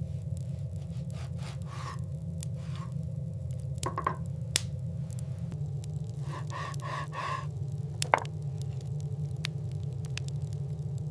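Steady low wind rumble, with scattered sharp clicks and a quick run of soft crunches about six to seven seconds in.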